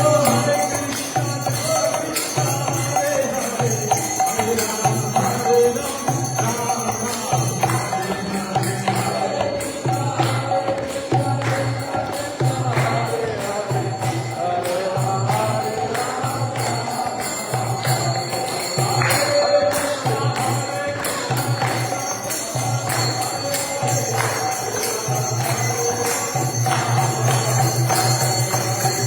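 Devotional kirtan-style music: jingling hand cymbals and a steady low drum beat a little over once a second under a held, wavering melody line.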